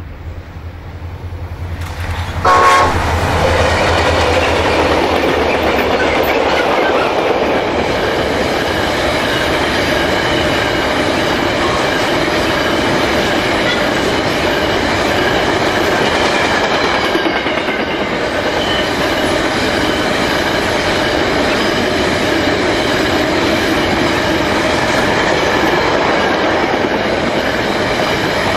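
Diesel-hauled freight train of grain hopper wagons passing close by: a brief horn blast about two and a half seconds in as the locomotives draw level, their engines droning low for a few seconds. Then the long rake of wagons rolls steadily past, with wheel clickety-clack and a set of high steady ringing tones from the wheels.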